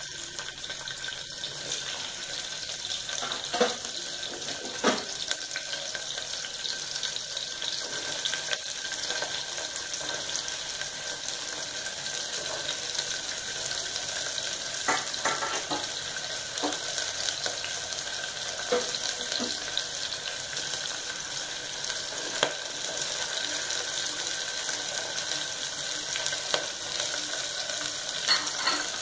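Onions and vegetables sizzling steadily in hot oil in an aluminium pressure cooker on a gas stove, with a few short clinks of utensils against the pot and bowls.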